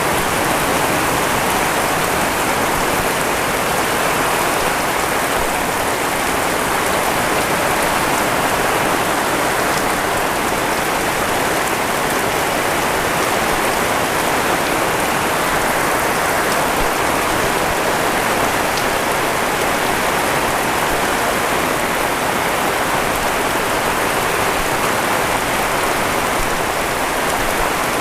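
Heavy rain falling steadily, a dense even hiss with fine drop patter on surfaces.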